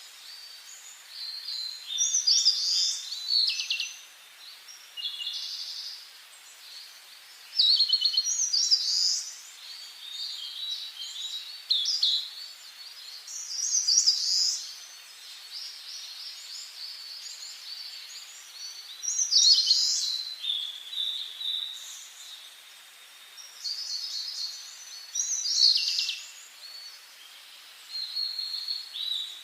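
Songbirds singing in high-pitched, varied phrases of a second or two, coming every few seconds, over a faint steady hiss.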